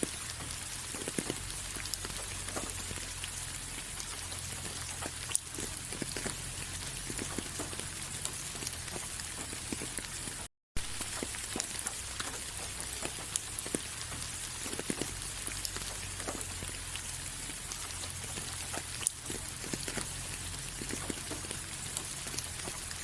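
Steady rain falling: an even hiss with scattered individual drops ticking, over a low rumble. The sound cuts out to silence for a split second about ten seconds in.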